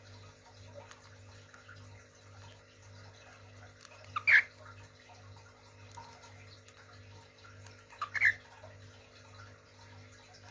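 A small cage bird giving a short, loud call twice, about four seconds apart, each with a quick note just before it, over a steady low hum.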